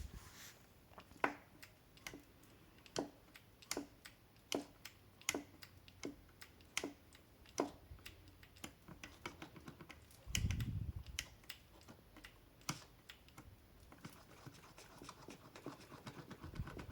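Knocking in an electric scooter's steering assembly: sharp, irregular clicks about once or twice a second, with one duller thump about ten seconds in. The knock comes from play in the steering that a washer is meant to take up.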